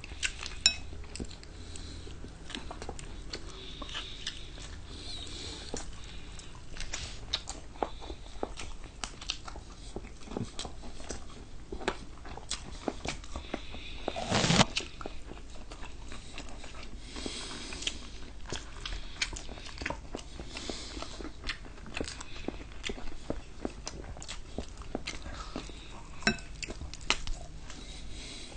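Close-up mouth sounds of people biting and chewing fried chicken: many small crunching clicks and smacks all through, with one louder sharp crunch or knock about halfway through.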